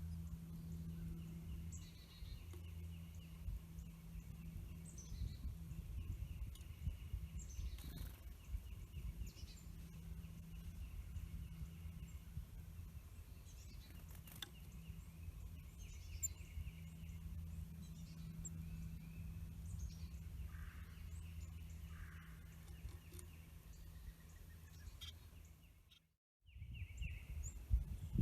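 Songbirds calling outdoors: short high chirps and a repeated rapid trill, over a steady low hum. The sound drops out briefly near the end, then the ambience resumes.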